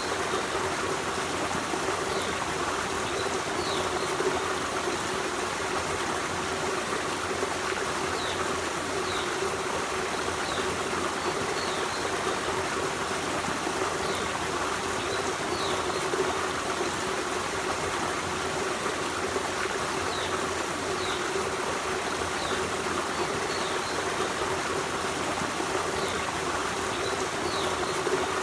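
Forest stream flowing over stones, a steady rushing and trickling of running water. Faint short high-pitched notes sound every second or two above the water.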